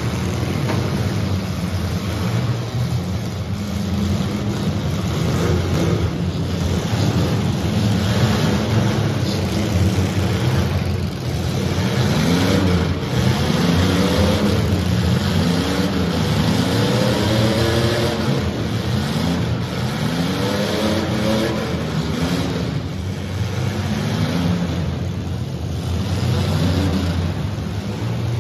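Engines of several compact demolition derby cars running hard. Through the middle come a run of quick revs that rise and fall in pitch, with occasional thuds of cars hitting each other.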